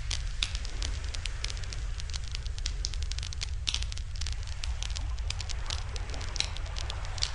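Wood campfire crackling, with frequent sharp pops and snaps, over a steady low rumble.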